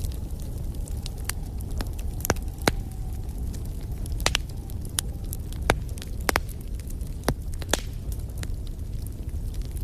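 Wood fire in a fireplace crackling: a dozen or so sharp, irregular pops and snaps over a steady low rumble of the flames.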